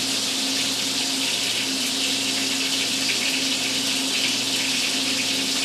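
Onion rings frying in hot bacon fat in a pan: a steady, even sizzle.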